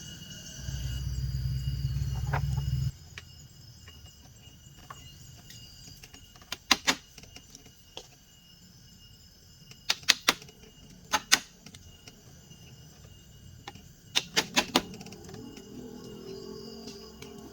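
Sharp knocks in short clusters of two to four, over a steady high insect drone, after a low rumble that cuts off suddenly about three seconds in.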